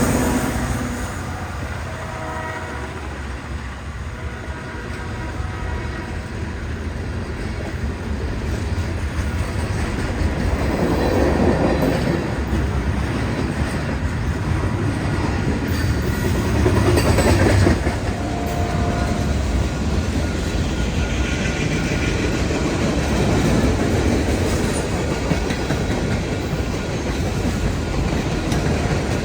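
A train rolling past on the tracks: a steady rumble of wheels on rail with clickety-clack over the joints, swelling toward the middle and easing after about 18 seconds. A horn sounds faintly at times.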